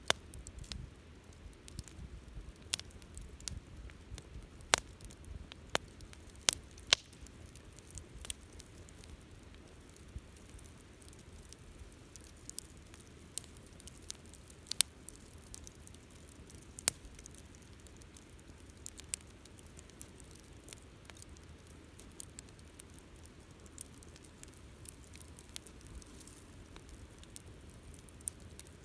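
Wood campfire burning: irregular sharp crackles and pops over a low steady rumble of flame, with a few louder pops in the first seven seconds and around fifteen seconds in.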